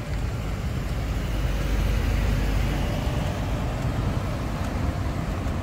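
Street traffic: a steady rumble of passing vehicles, swelling about two seconds in.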